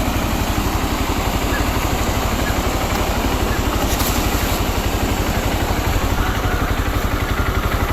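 A vehicle engine running steadily at idle, its low, even pulsing unbroken, with a steady hiss laid over it.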